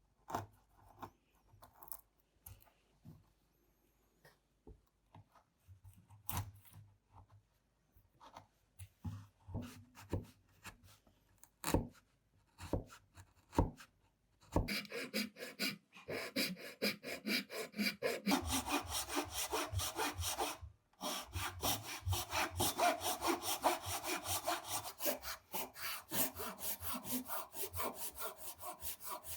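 Scattered knocks and taps on wood, then a hand saw cutting wood in quick, even back-and-forth strokes from about halfway through, with one short pause.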